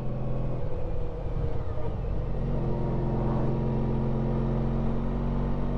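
Honda ST1300 Pan European's V4 engine running under way; the engine note shifts and wavers about a second in, then holds steady.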